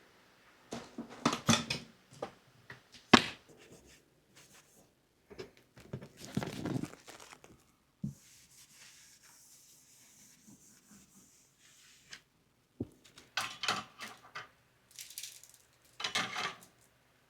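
Intermittent household handling sounds: rustling, rubbing and light knocks in a small room, with a single sharp knock about three seconds in as the loudest sound and a quieter stretch in the middle.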